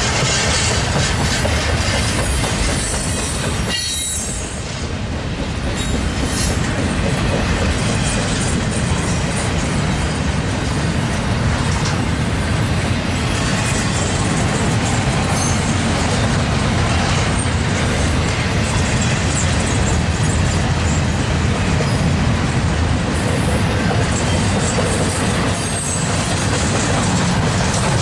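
Freight train rolling past, a steady loud rumble of its cars on the rails, with a short dip about four seconds in.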